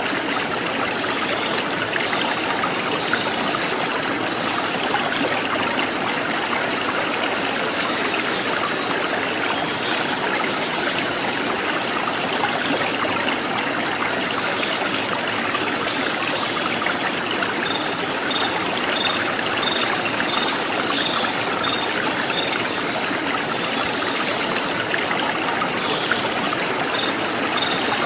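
Stream water trickling and splashing steadily, with a wild bird calling in quick runs of short high notes: a brief run about a second in, a long run a little past the middle, and another near the end.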